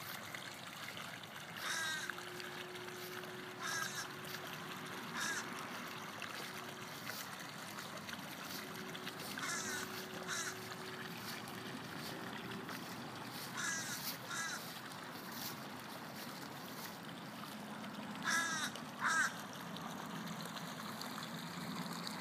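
A bird calling in short calls every couple of seconds, with a louder pair close together near the end, over a faint steady hum that comes and goes.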